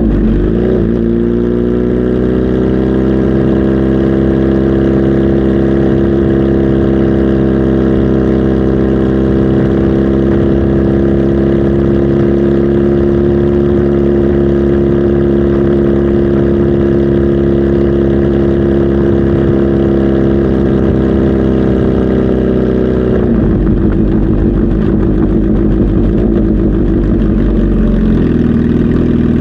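Kawasaki Z H2 SE's supercharged inline-four engine held at steady raised revs, then the revs drop back about two-thirds of the way through and settle lower, toward idle, near the end.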